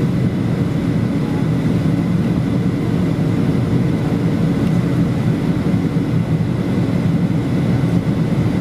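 Steady cabin noise inside a Boeing 737-800 in flight: the CFM56-7B engines and the airflow past the fuselage heard as an even, low rumble from a window seat, with a faint steady whine above it.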